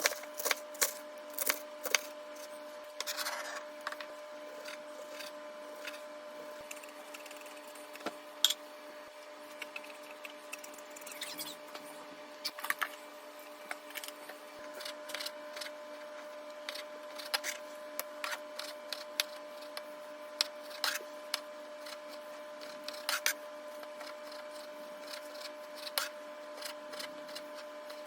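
Food-preparation handling sounds: scattered clicks, taps and rustles of utensils and ingredients being handled, over a steady low hum.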